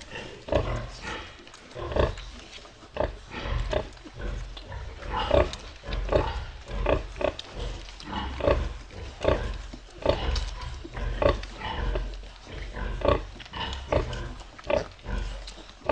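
Pigs grunting in short, repeated grunts, about one or two a second, over a low background rumble.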